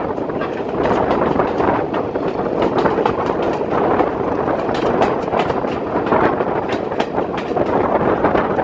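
British Rail Mk1 passenger coach running along the track, heard from aboard: a steady rumble of wheels on rail with frequent irregular sharp clicks and rattles.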